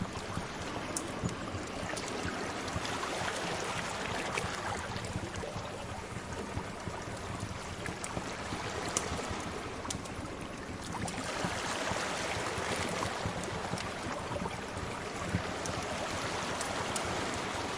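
Sea waves washing in and out in slow swells, with scattered sharp pops and crackles of a fire.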